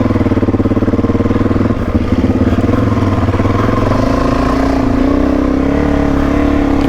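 Suzuki DR-Z400E's single-cylinder four-stroke engine pulling the motorcycle along a dirt track, its revs climbing a little about halfway through.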